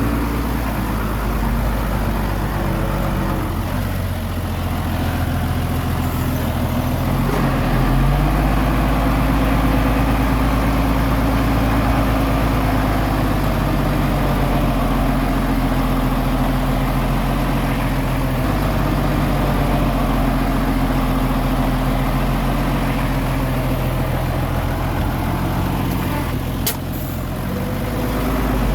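Diesel engine of a small Komatsu bulldozer running steadily while pushing soil, its pitch shifting a few times as the load changes. Near the end there is a single sharp click.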